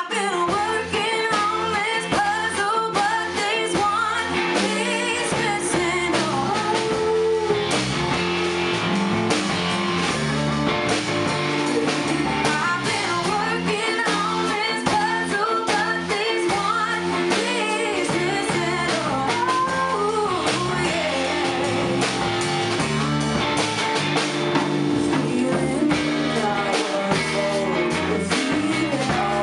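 A band playing a rock song, with a singer's voice over guitar.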